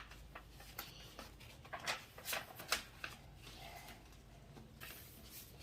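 A sheet of paper being folded in half by hand and creased: soft rustling with several sharp crackles about two seconds in.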